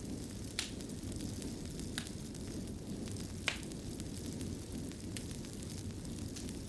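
Wood fire burning in a stone fireplace: a steady low rumble with four sharp crackling pops, the loudest about halfway through.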